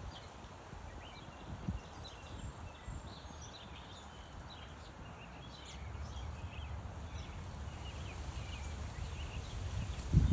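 Small backyard birds chirping in many short, scattered notes, over a low rumble that grows louder in the second half.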